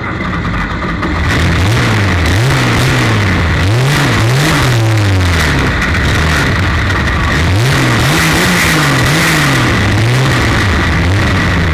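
Straight-six engine of a 1932 Ford Super Modified race car running hard at racing speed, its revs climbing and dropping again and again. It gets louder about a second in, and a steady high whine runs alongside.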